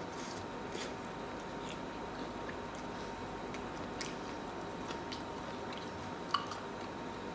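A person chewing food, with faint scattered mouth clicks and one sharper click about six seconds in, over the steady hiss of a camera's built-in microphone.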